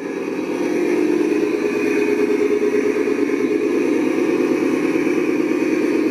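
A motor running steadily at a constant speed.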